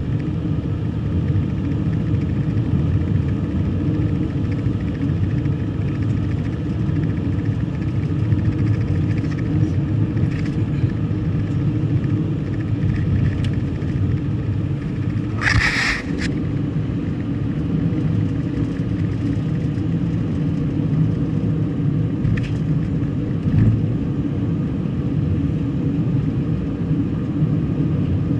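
Steady road and engine drone of a car being driven, with a short hiss about halfway through.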